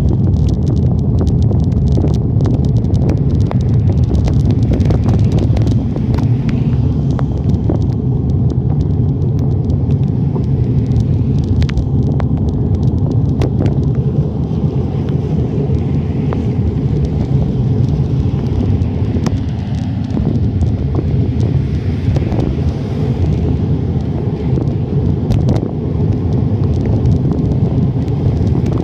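Wind rushing over a handlebar-mounted phone's microphone while cycling: a loud, steady low rumble, with many small ticks and knocks scattered through it.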